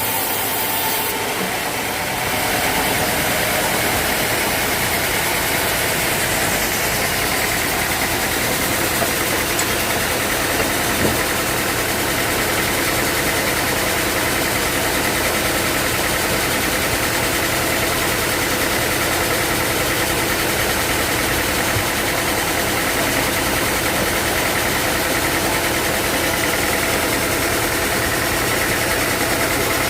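Sawmill machinery running steadily with an engine-like hum, a little louder from about two seconds in.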